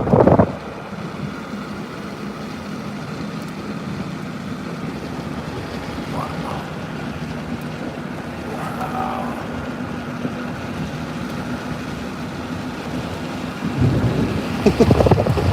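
Steady road and engine drone heard inside a moving vehicle's cabin, with a low steady hum underneath. It gets louder and busier in the last couple of seconds.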